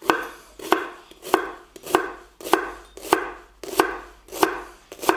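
Chef's knife chopping peeled shallots on a wooden cutting board: a steady run of about nine blade strikes on the board, a little over one and a half a second.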